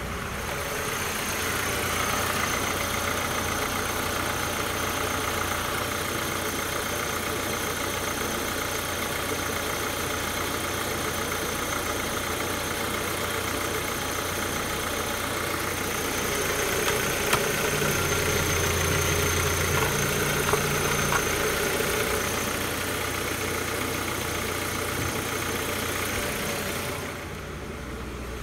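VW Passat B5's 1.6-litre AHL inline-four petrol engine idling steadily, a little louder for a few seconds past the middle.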